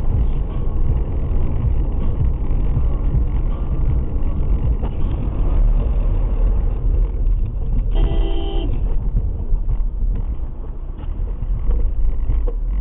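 Steady low rumble of a car driving, with one short car horn honk about eight seconds in.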